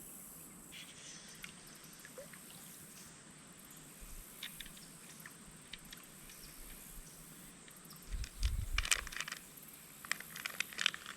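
Faint steady chirring of insects, with scattered small clicks and rustles; about eight seconds in and again near the end, a cluster of louder handling clicks, rustles and low thumps.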